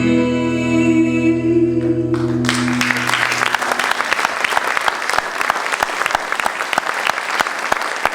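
The song's final chord is held by singing and instruments, with a steady bass note underneath, and dies away about three seconds in. Audience applause starts about two and a half seconds in and continues as dense clapping.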